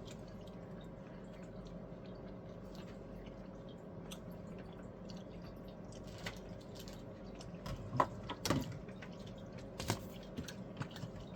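Quiet eating sounds from a toaster pastry: small wet mouth clicks over a steady low hum, with a few sharper clicks around eight and ten seconds in.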